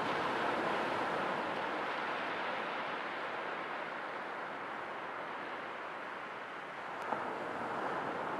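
Sea waves washing on the shore in a continuous rush of surf that swells, eases off and builds again near the end. A single brief click about seven seconds in.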